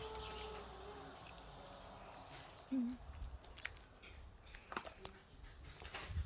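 Wild birds giving short, high chirps over quiet forest ambience, with a single short, low sound about three seconds in and a few soft knocks near the end.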